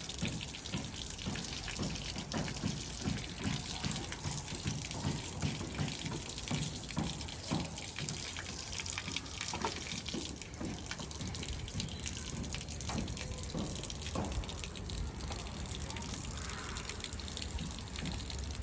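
Water running steadily, with irregular low rumbles underneath.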